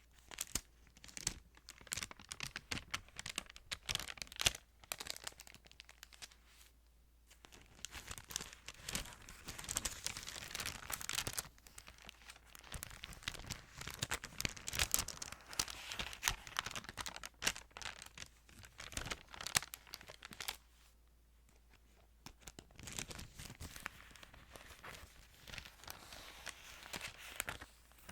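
Thin Bible pages being handled close up, crinkling and rustling in long crackly stretches with two short pauses.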